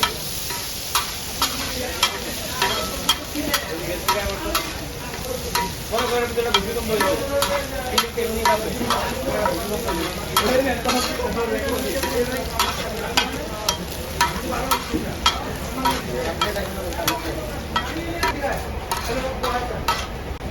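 Dried red chillies frying in hot oil in a pan, sizzling steadily, while a metal spatula stirs them and clacks sharply against the pan every second or so.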